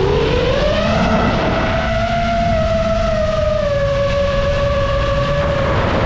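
Paramotor engine running, its pitch climbing over the first couple of seconds and then holding steady, over a heavy low rumble.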